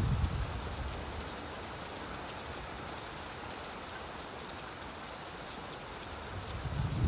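Steady rainfall, an even hiss. A low rumble of thunder dies away in the first half second and another starts to swell near the end.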